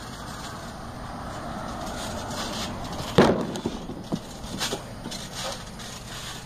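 A heavy thud on a backyard trampoline as a wrestler lands on the mat, about three seconds in, with the springs and frame giving a short ring, then a few lighter knocks as the wrestlers move on the bed.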